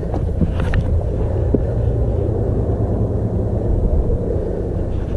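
Wind buffeting the microphone of a chest-mounted camera, a steady low rumble, with a few faint knocks.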